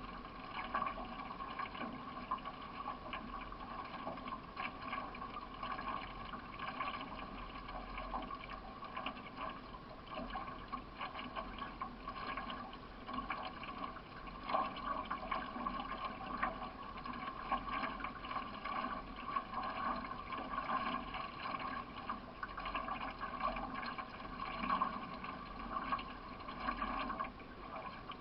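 Water sloshing and trickling around a solo racing canoe under way, with paddle strokes dipping into the river.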